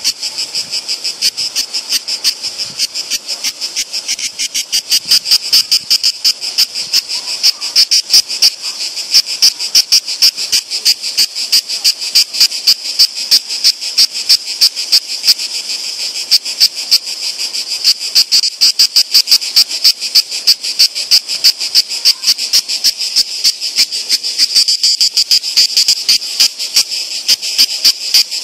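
Two European cicadas singing loudly: a shrill, rapidly pulsing buzz that swells about four seconds in and keeps up its fast rhythm.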